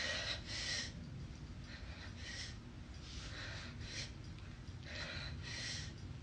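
A woman breathing hard during a workout, in rapid rhythmic breaths about one a second, often paired as in and out.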